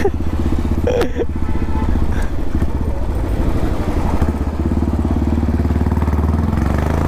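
Royal Enfield Classic 350's single-cylinder engine running steadily through a custom dual exhaust, a rapid, even low beat from the pipes.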